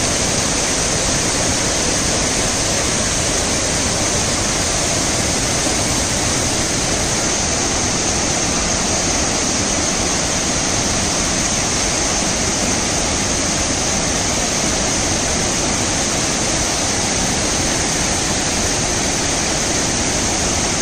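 Hogenakkal waterfalls on the Kaveri river, falling water making a loud, steady rushing noise without a break.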